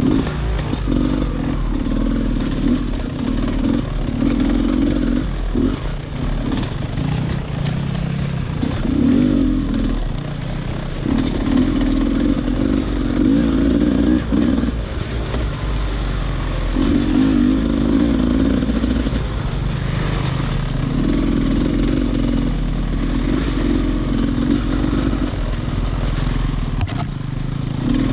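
Off-road dirt bike engine under way on a trail, the throttle opened and eased off again and again so the engine note swells and drops every couple of seconds.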